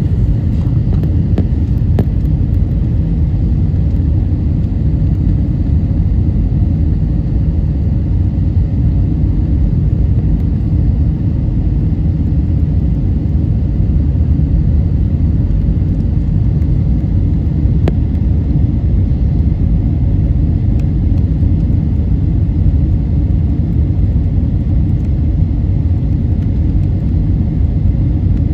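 Steady low cabin roar of a Wizz Air Airbus A320-family jet airliner in descent, the engines and the airflow over the fuselage heard from inside the cabin. A faint click comes about two seconds in and another around eighteen seconds.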